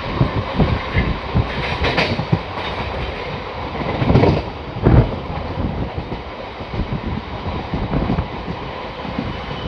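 Express train running on the track: a steady rumble and clatter of wheels over rail joints, with two heavier thumps about four and five seconds in.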